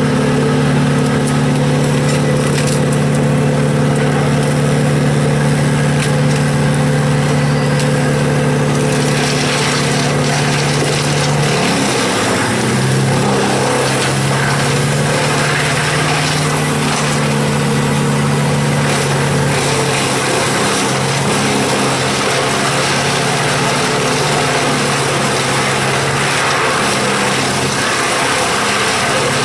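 An engine running steadily. Its pitch drops slightly about twelve seconds in and comes back up near the end, with a rougher, noisier sound through the middle stretch.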